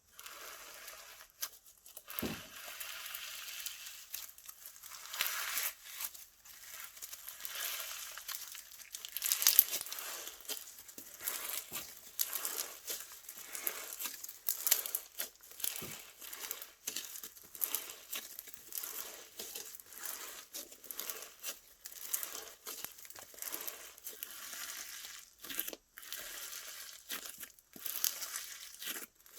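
Hands squishing and stretching a crunchy slime: a dense, irregular run of crackling pops and squelches, loudest in a burst about nine or ten seconds in.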